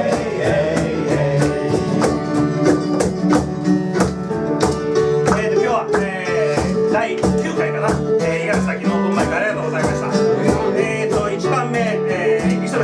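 Live acoustic performance: strummed guitar keeping a steady, quick rhythm, with a singing voice over it.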